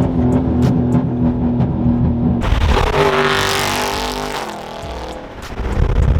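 Muscle car engine running hard at speed, a steady engine note that switches abruptly about two and a half seconds in to a louder rushing sound, eases off past the middle and comes back up near the end.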